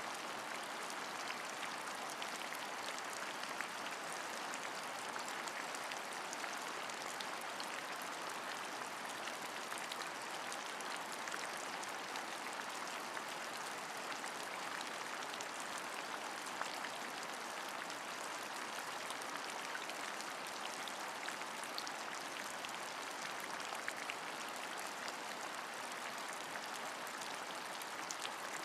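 Steady rain falling, an even hiss with many small ticks of single drops striking a surface.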